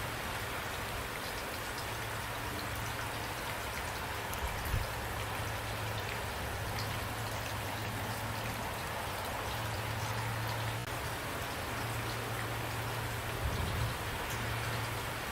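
Steady rain, a continuous hiss with scattered drops ticking through it, over a low rumble that swells slightly twice.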